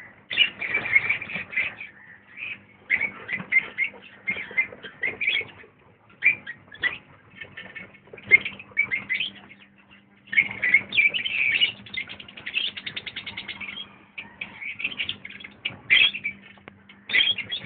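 Birds chirping and calling in irregular bursts, with a fast rattling trill about twelve seconds in.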